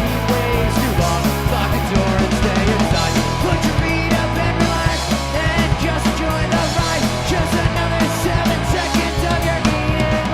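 A rock band playing live: drum kit keeping a fast, steady beat under electric guitars and bass.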